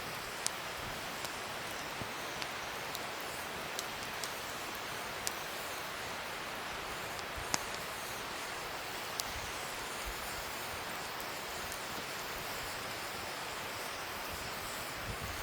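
Wood fire burning with a steady hiss, broken by scattered sharp crackles and pops from the burning wood, the loudest pop about seven and a half seconds in.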